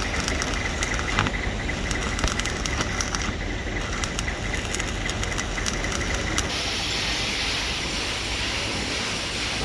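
K25 diesel pile hammer driving a spun concrete pile: sharp knocks roughly once a second over a steady low rumble, with a hiss rising about two thirds in.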